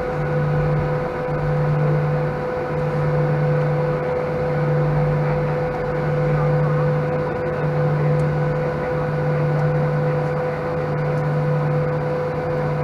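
Steady cabin noise inside a Boeing 737-800: the airliner's engines and air systems hum with a constant mid-pitched tone. Under it, a low hum pulses on and off about once a second.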